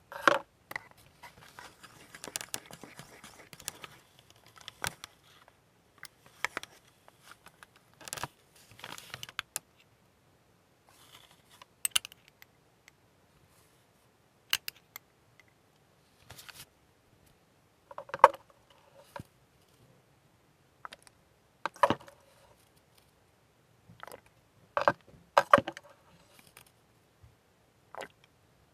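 Scattered small clicks, taps and brief scrapes of a plastic ship model and painting tools being handled on a workbench, with a short spell of rustling or scraping near the start.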